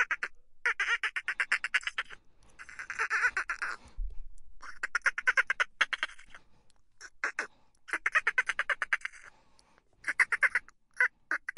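Bottlenose dolphins chattering. The calls come as repeated bursts of rapid clicking pulses, about ten a second, each burst up to a second long with short gaps between.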